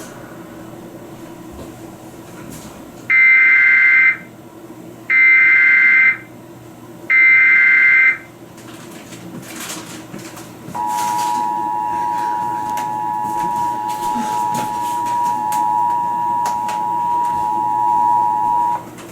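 Emergency Alert System SAME header: three identical one-second bursts of warbling digital data tones, about a second apart. About two seconds later the two-tone EAS attention signal starts and holds steady for about eight seconds, then cuts off, announcing a flash flood warning. A faint steady hum runs underneath.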